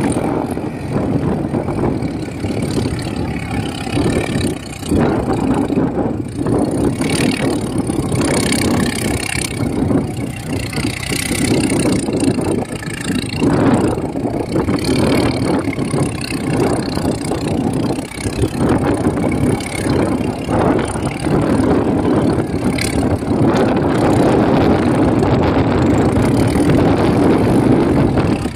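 Swaraj 855 tractor's diesel engine running loud, its level rising and dipping unevenly.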